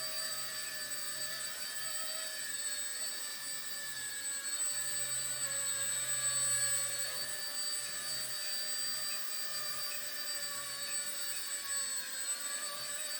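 Micro F150BL V3 RC helicopter flying: a high whine from its brushless motors and spinning rotors, wavering slightly in pitch and a little louder around the middle.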